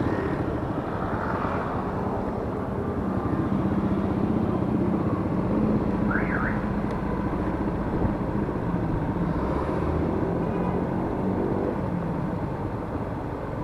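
Yamaha Mio S scooter's 125 cc single-cylinder engine running steadily under way, with wind and road noise on the mic. A brief high warbling sound is heard about six seconds in.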